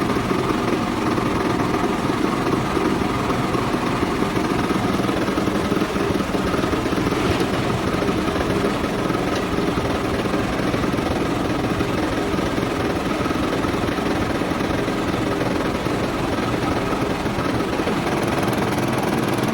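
An engine running steadily at an even speed, with a constant hum that does not change.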